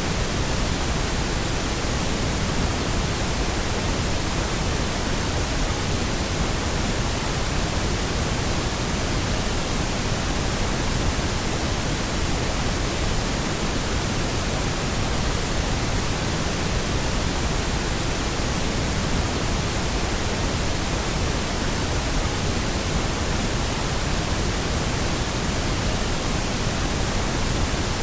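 Steady synthetic pink noise, an even hiss over all pitches with a deeper rush than white noise, unchanging throughout.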